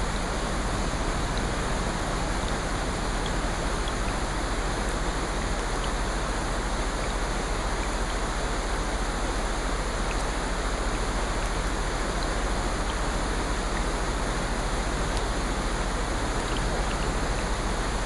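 Steady rain-like water noise, an even hiss with no breaks or swells, with faint scattered ticks like drops.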